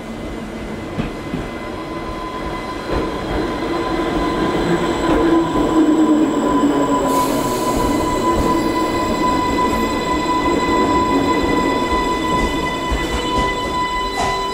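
Class 484 electric multiple unit running into the platform and slowing to a stop, its wheels rumbling on the rails with a steady high whine and squeal. The sound grows louder as the train comes alongside, with a short hiss about halfway through and a falling tone as it draws to a halt near the end.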